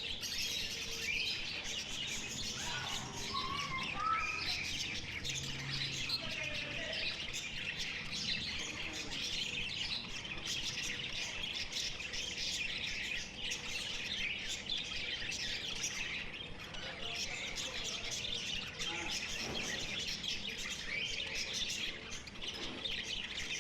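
A flock of caged lovebirds chirping and chattering without a break, many calls overlapping into a dense, high-pitched din.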